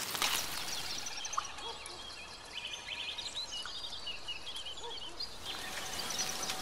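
Many small birds chirping and calling in quick, short notes over a steady outdoor background hiss.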